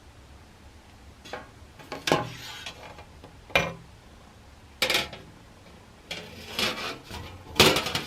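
Metal parts of a Phoebus 725 camping stove being handled and worked, giving several short scrapes and clinks, the loudest near the end.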